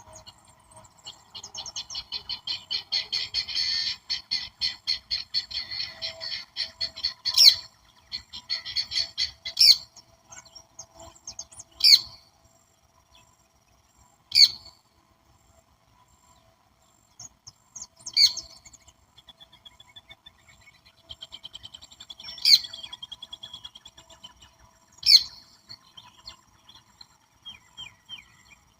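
Wild birdsong: a fast run of repeated chattering notes for about six seconds, then loud, sharp single calls every two to four seconds, over a faint, steady insect drone.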